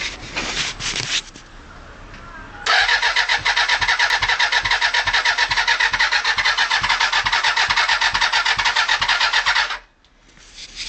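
Electric starter motor cranking a Suzuki Bandit 400's four-cylinder engine for about seven seconds, in a fast, even rhythm, then stopping abruptly without the engine catching: a non-start even though the plugs spark. A few clicks and rustles come just before it.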